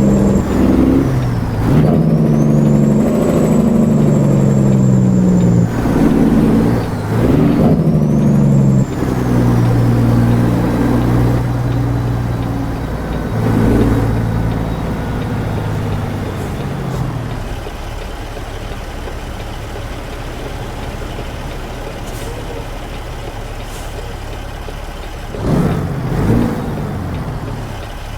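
Straight-piped Caterpillar C15 diesel in a Classic XL semi pulling away under load. Its exhaust note climbs and drops through several gear shifts, with a high whine that falls at each shift. After that it settles to a quieter steady run, and two short bursts come near the end.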